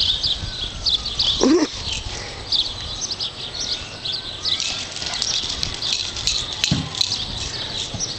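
Many small birds chirping steadily, with a brief louder sound about a second and a half in.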